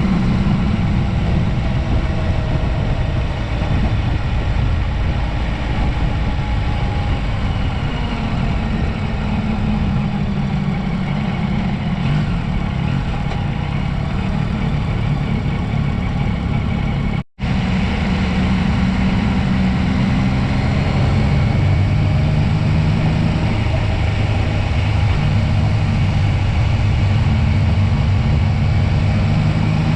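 Motorcycle engine running steadily with road and wind noise, cut off for an instant a little past halfway.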